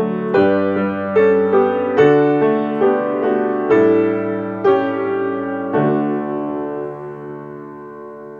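Piano playing slow chords, ending on a long final chord that fades slowly.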